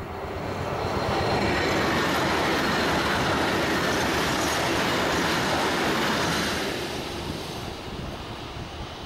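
Electric multiple-unit passenger train passing close by on the rails. Its wheel and running noise builds over the first second, stays loud for about five seconds, then fades as it moves away.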